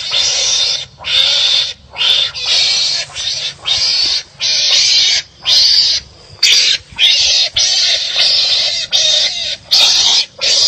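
Animals fighting, giving harsh, loud, rasping calls one after another, roughly one a second, each up to about a second long with brief gaps between.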